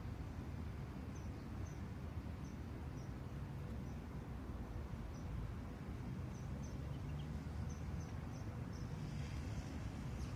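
A small bird chirping, short high chirps repeated at irregular intervals, over a steady low outdoor rumble.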